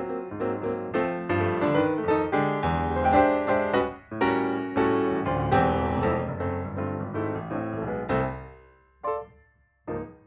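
Piano music: a steady run of struck notes that dies away about eight seconds in, followed by two single notes near the end.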